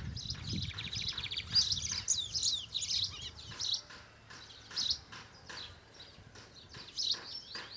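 Lined seedeater (bigodinho) singing: a fast run of high trilled and buzzy notes for the first few seconds, then a few shorter separate phrases.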